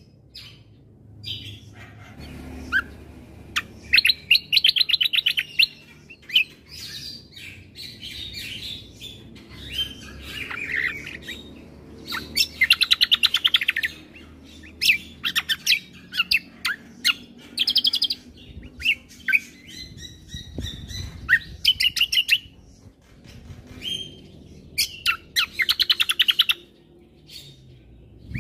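Kecial kombo (cucak kombo) singing: loud phrases of rapid trills and sharp chirps, high-pitched, repeated every second or two with short pauses between them.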